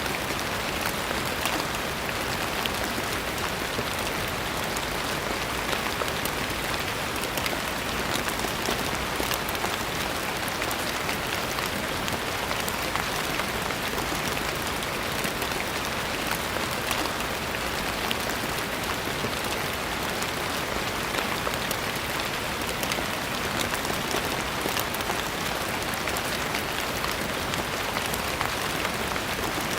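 Steady rain falling on a surface, with a constant patter of many small drops and no change in intensity.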